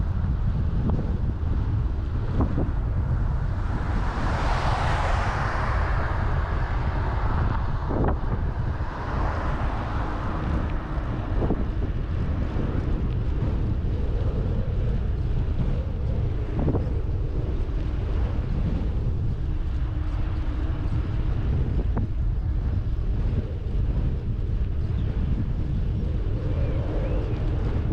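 Wind buffeting the microphone of a camera on a moving bicycle, a steady low rumble. About four seconds in, a louder rushing sound swells and fades over two seconds, with a smaller one near ten seconds in.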